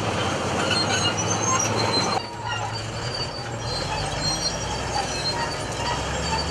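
Steady vehicle running noise with a low hum and brief high squeals; the overall level drops suddenly about two seconds in.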